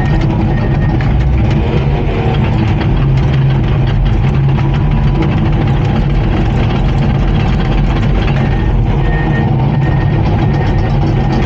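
Komatsu D39PX bulldozer's diesel engine running steadily with clattering, and a faint beeping that repeats near the end.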